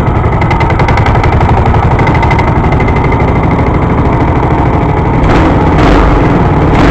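Small gasoline engine running steadily with a rapid, even firing beat, with two brief swells of noise near the end.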